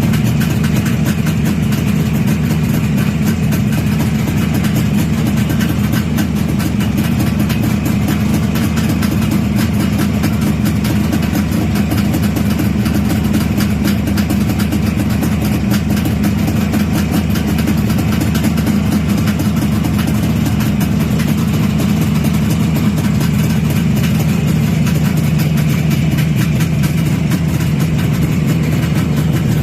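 Kawasaki Mach two-stroke triple-cylinder motorcycle engine running steadily at idle, freshly repaired with its carburettors not yet adjusted.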